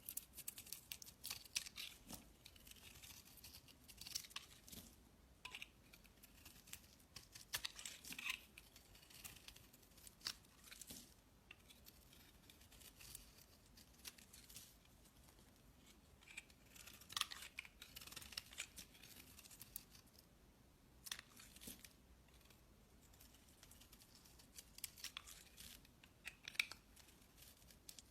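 Faint, crisp crackling and snipping in irregular clusters of short clicks, like something crisp being cut or crushed.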